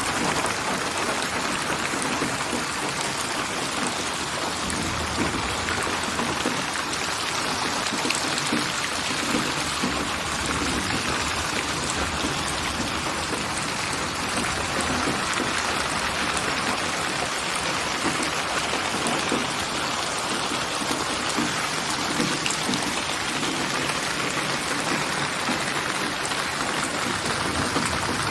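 Steady rain: dense raindrops pattering on surfaces in an even wash, a synthesized rain soundscape.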